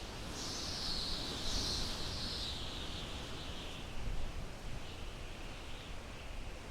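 Wind blowing through pine trees, a high hissing rush of needles that swells in a gust about half a second in and eases off after a few seconds.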